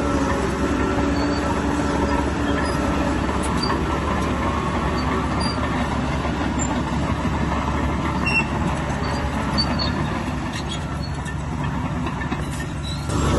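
A bulldozer working: its diesel engine runs steadily under load, with small metallic squeaks and clinks scattered over the rumble.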